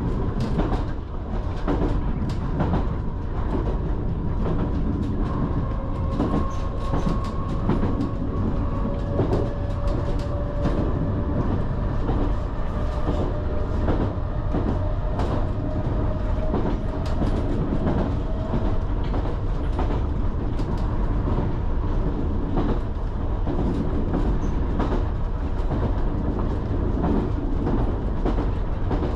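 Island Line Class 484 electric train running at speed: steady rumble of wheels on rail with frequent clicks and knocks over rail joints, and a faint whine that rises slowly in pitch through the middle.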